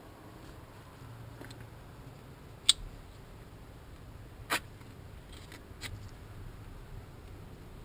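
A few sparse, sharp clicks and taps of small hard objects being handled, the two loudest about three seconds and four and a half seconds in, over a low steady hum.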